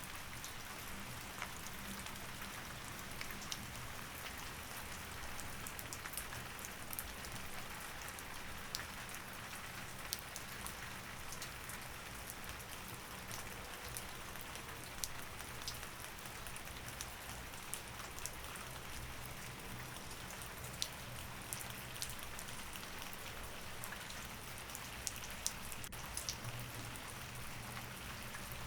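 Steady rain falling, with many individual drops ticking sharply on a hard surface over an even hiss, and a faint low steady hum beneath.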